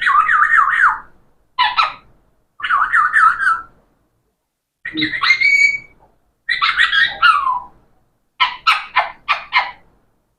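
Parrot whistling and squawking in about six short bursts, its pitch wavering quickly up and down, with brief pauses between.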